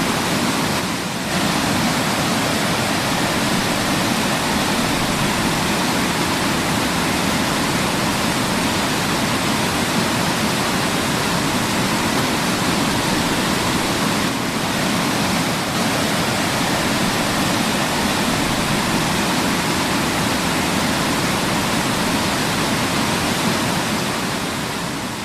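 Waterfall: water falling and rushing in a steady, even roar of noise. It dips briefly about a second in and begins to fade near the end.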